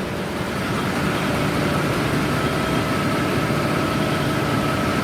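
Machinery of an ice rink's refrigeration plant running: a steady heavy drone from the compressors and their electric motors, with a faint steady whine over it.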